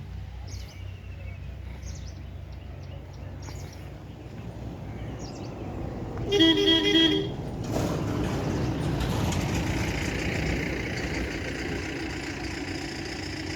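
A vehicle horn sounds once for about a second, about six seconds in, over a steady low engine rumble; from about eight seconds a louder vehicle engine sound takes over.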